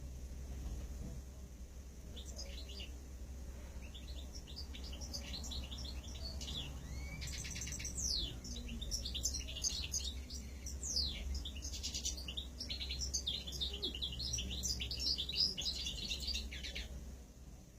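Small ornamental cage birds chirping and twittering, many quick calls overlapping, growing busier about eight seconds in, over a steady low hum.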